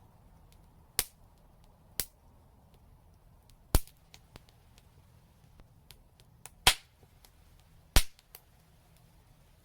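Fire crackling: five sharp, loud pops spread out over the stretch, with fainter ticks between them and a low steady rumble underneath.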